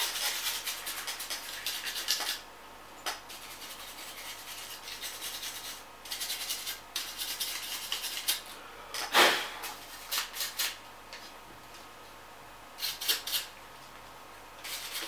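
Irregular brushing and rubbing strokes on a graphics card's fan as it is cleaned, in short scrubbing bursts with a stronger stroke about nine seconds in and a few light clicks.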